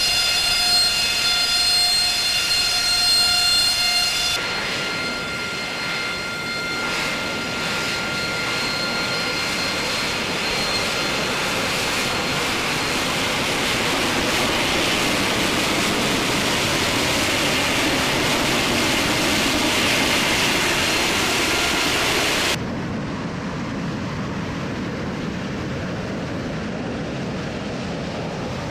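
AV-8B Harrier II's Rolls-Royce Pegasus turbofan running. A steady high whine with several pitched tones for about four seconds gives way to a loud, broad rush of jet thrust. That rush cuts off abruptly about 22 seconds in, leaving a quieter, duller jet noise.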